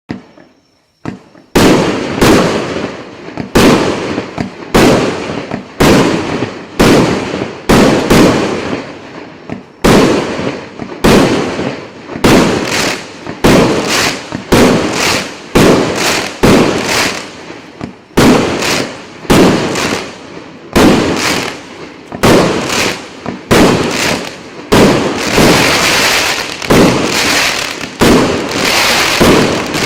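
A 49-shot, 1.2-inch firework cake battery firing its shots one after another, about one and a half a second, each a sharp bang with a short fading tail. The shots begin about a second and a half in and turn denser and more crackling near the end.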